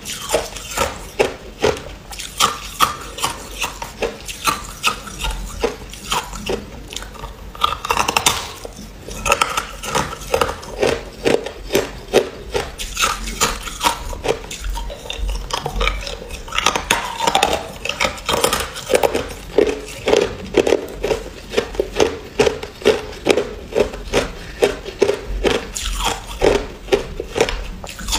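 Ice being bitten and chewed close to the microphone: a steady run of sharp, brittle crunches, a few a second.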